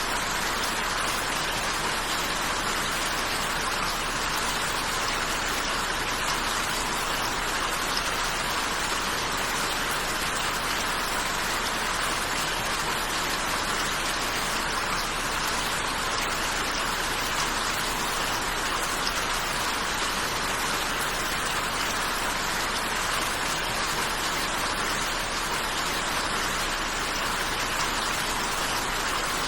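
Steady rain falling: an even, unbroken hiss that never rises or falls.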